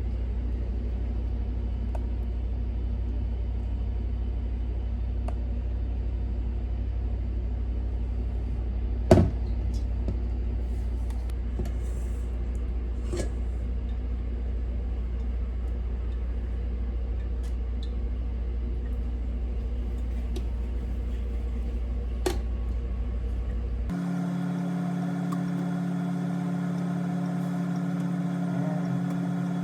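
A steady low machine hum with a few sharp clicks, the loudest about nine seconds in. About three-quarters of the way through it changes suddenly to a different, higher steady hum.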